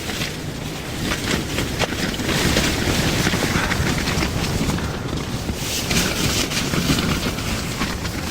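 Strong blizzard wind gusting over the microphone: a rushing noise that grows louder about two seconds in and rises and falls in gusts.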